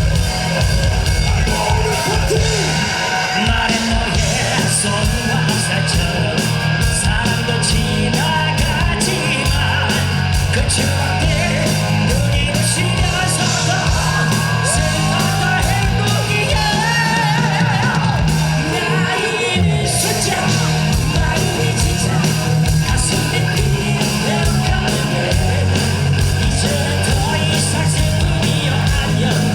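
Live rock band playing loudly with drums, electric guitar and bass, and a male vocalist singing high, shouted lines.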